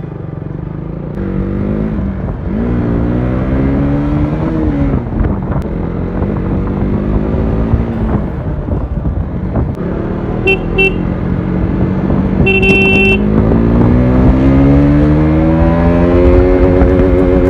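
KTM Duke 200's single-cylinder engine running under way, its pitch rising and falling repeatedly as the throttle opens and closes through the gears. A vehicle horn toots briefly twice, about ten and thirteen seconds in.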